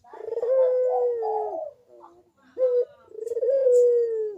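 Puter dove (domestic ringneck dove) cooing in the lively 'manggung' style: a long drawn-out coo, a short clipped note, then a second long coo that slides slightly lower at its end.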